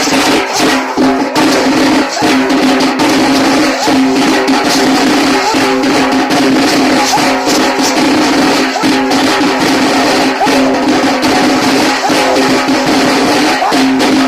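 Tasa drumming: loud, dense, rapid strokes on tasa kettle drums, running on without a break over a steady held tone.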